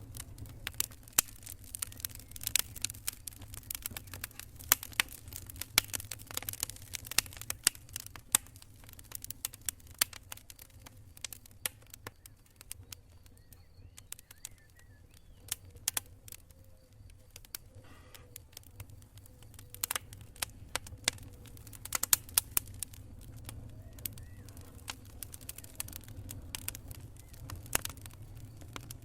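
Wood campfire crackling: irregular sharp pops and snaps, thick at first, thinning for several seconds around the middle, then picking up again, over a steady low rumble.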